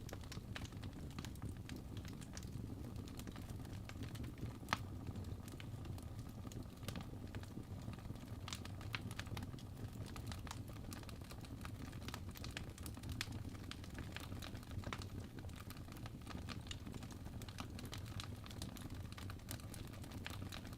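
Crackling fire: irregular sharp snaps and pops over a low steady rumble, one louder pop about five seconds in.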